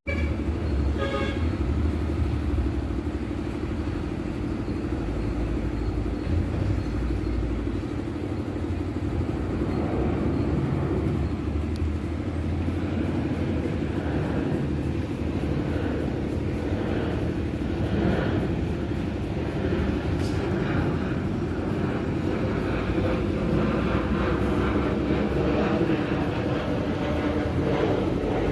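Steady low rumble of distant engines, with continuous outdoor background noise.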